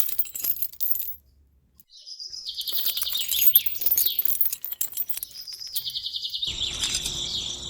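Small birds chirping and twittering in a busy, high run of calls that starts about two seconds in, after a second of light clicking and a short silent gap.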